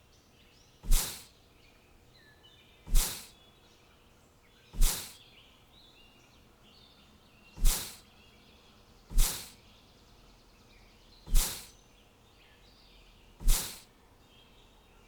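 Faint bird chirping ambience, broken by seven loud, sharp hits, each fading quickly, one every one and a half to three seconds.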